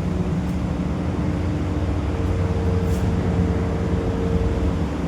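Exhaust fan running steadily: a low motor hum with a few steady tones over a rush of moving air.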